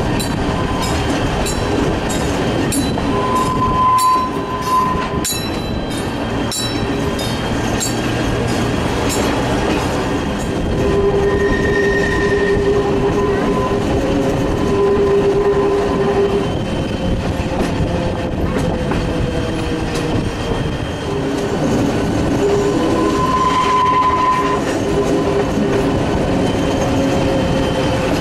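A narrow-gauge Genova–Casella railway train running along the track with a steady rumble. Over the first several seconds the wheels rattle and click over rail joints, and high held whining tones come and go twice, once in the middle and again near the end.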